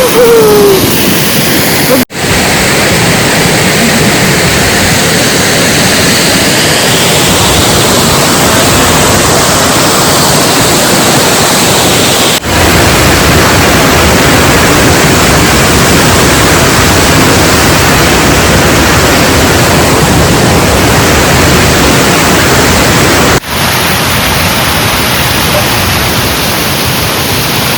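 Waterfall: a loud, steady rush of falling water close by, broken by three brief dropouts about two, twelve and twenty-three seconds in.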